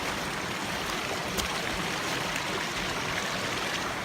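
Water running steadily over rocks in a small canyon stream and waterfall, with a single light click about a second and a half in.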